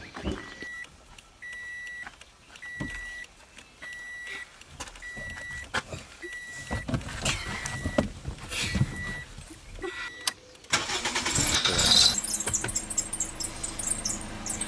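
Car warning chime beeping steadily, about one and a half beeps a second, among clicks and knocks of someone settling into the driver's seat. About eleven seconds in, the Toyota sedan's engine cranks and starts, then keeps running.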